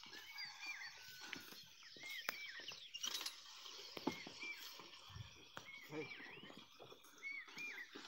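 A bird repeats a short two-note call every two seconds or so. Underneath are faint rustling and soft knocks from the pair of bullocks and the ploughman walking through grass behind the plough.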